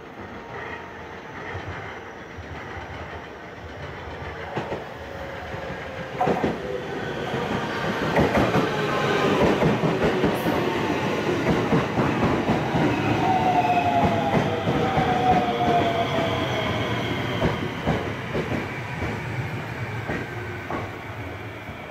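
Local electric passenger train passing close by. Its wheels clack over the rail joints, the sound swells to a peak and then eases, and a whine falls in pitch as it goes by.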